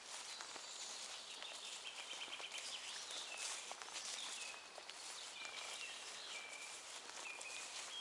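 Forest birds singing: several short whistled phrases and one rapid trill about two and a half seconds in, over a steady outdoor hiss.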